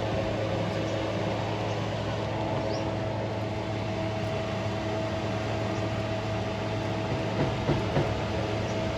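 Toyota Corolla XLi petrol engine idling steadily, its ignition timing just checked and found correct.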